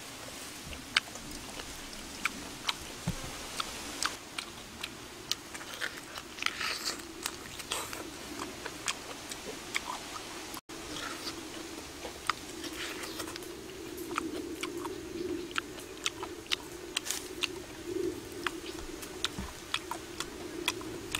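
A person chewing and smacking their lips on grilled pig-head meat: a run of sharp, irregular mouth clicks over a low steady hum.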